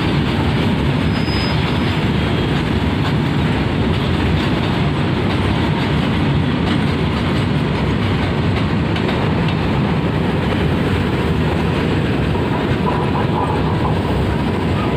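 Train running on its rails, a loud steady noise of wheels and carriages on the track, with a faint brief whine near the end.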